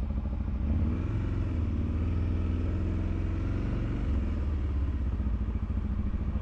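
Motorcycle engine running while being ridden, its revs rising about a second in, dipping briefly, climbing again, then dropping about four seconds in.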